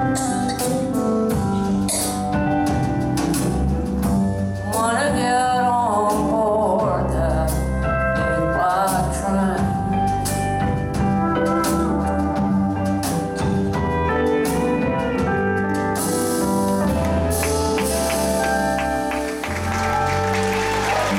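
Live band playing the closing instrumental bars of a song, with a wavering, bending lead line about five seconds in. Audience applause starts to swell in over the music in the last few seconds.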